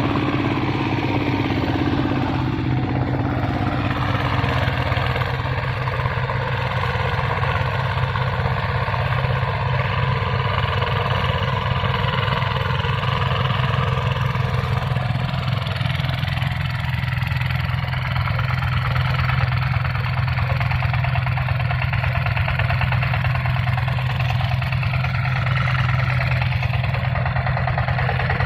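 Hand tractor's engine running steadily while plowing a paddy field, a constant low mechanical drone.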